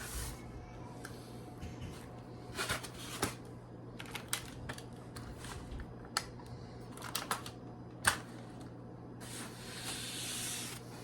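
Scattered light clicks and knocks of an RC crawler truck being handled and set in place, with one sharper knock about eight seconds in and a short rustling hiss near the end, over a steady low hum.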